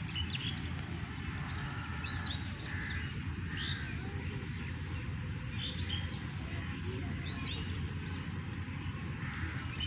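Several birds chirping and calling in quick short notes all through, over a steady low rumble.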